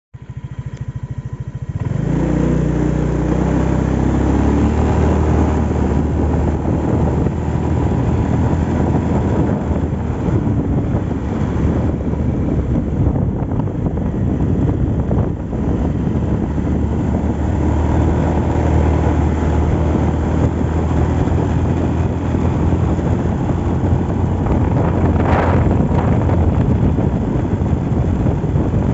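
Motor vehicle engine running steadily while travelling. It comes up loud about two seconds in, after a quieter opening.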